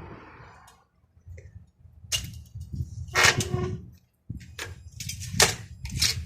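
A series of sharp knocks and clacks from working on a sliding window, with short quiet gaps between them; the loudest, about three seconds in, leaves a brief ring.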